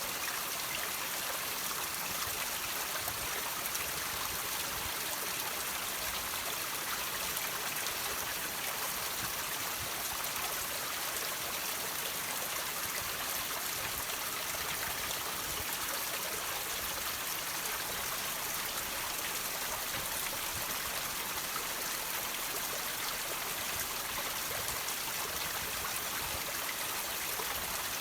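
Water trickling and dripping off rocks: a steady splashing hiss with many small drips.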